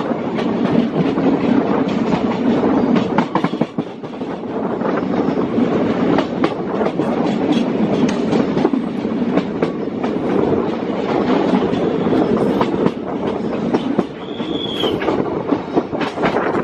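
Passenger train running along the track: a steady rumble with many short clicks of the wheels over the rails. A brief high squeal sounds once near the end.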